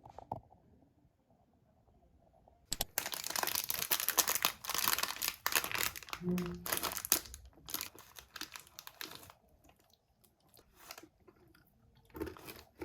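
Crinkling and rustling of packaging being handled: a dense run of crackles for about seven seconds, starting near three seconds in, then a few scattered rustles.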